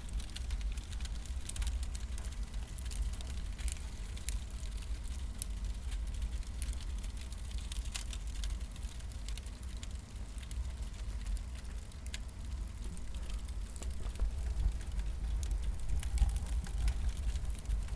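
Wood fire burning, crackling with scattered sharp pops, over a steady low rumble.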